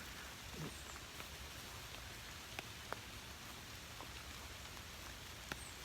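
Steady rain falling on the woodland, a soft even hiss with a few separate drops tapping sharply now and then.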